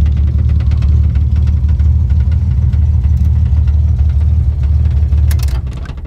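Datsun 240Z's 2.8-litre straight-six, with twin Weber carburettors and extractor headers, idling with a steady low rumble that fades away near the end.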